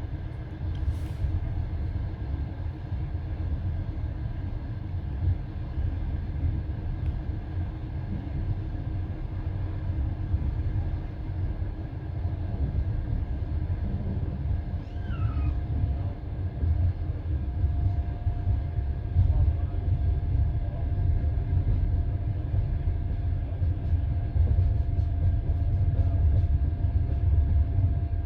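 Passenger train running along the track, heard from inside the carriage: a steady low rumble of the wheels on the rails. A brief high squeak glides about halfway through.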